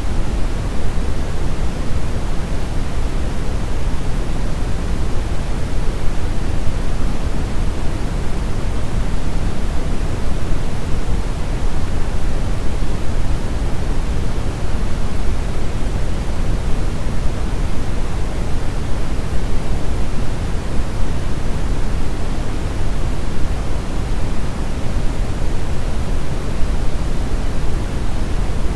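Steady brown noise: a smooth, unchanging deep hiss, heaviest in the low end, with no events.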